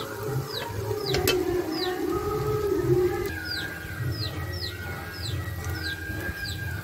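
Birds chirping over and over, short falling calls about two a second, with a low wavering tone through roughly the first half. Two sharp clicks, one at the very start and one about a second in.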